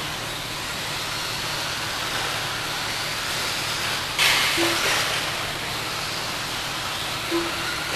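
Electric RC stadium trucks racing on an off-road track: a steady hiss of motors and tyres, with a sudden louder rushing burst about four seconds in.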